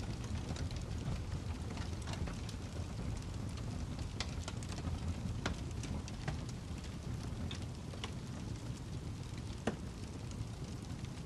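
Wood log fire burning in a fireplace: a steady low rumble of flames with scattered sharp crackles and pops, the loudest pop near the end.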